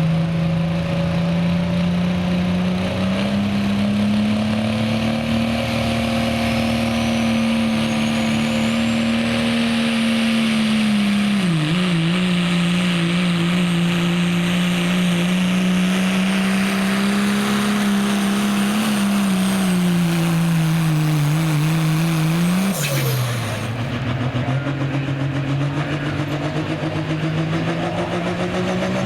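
Turbocharged diesel pickup engine running hard at high revs under load while pulling a sled. Its pitch holds with small wavers, dips a couple of times near the middle, and falls suddenly about 23 seconds in before steadying lower. A faint high whistle rises in pitch during the first several seconds.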